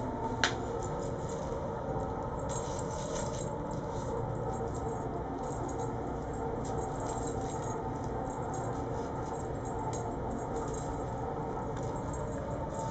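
Kittens scampering and playing, with light scattered taps and scuffles over a steady background hum and one sharper tap about half a second in.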